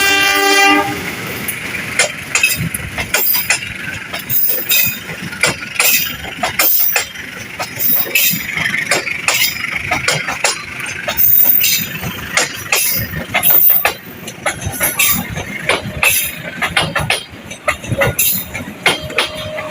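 A train passing close by, its wheels clattering and clanking over the rail joints and points. A horn note stops within the first second.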